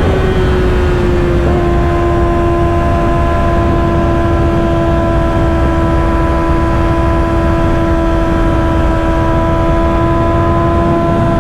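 Kawasaki Ninja ZX-6R 636's inline-four engine running at a steady cruise, its pitch shifting slightly about a second and a half in and then holding even, with wind rushing over the rider's microphone.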